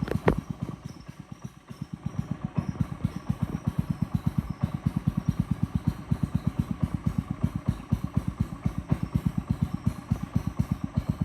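Small boat engine running, a fast and even putt-putt of low thumps that dips in level briefly about a second in, then keeps on steadily. A couple of sharp clicks right at the start.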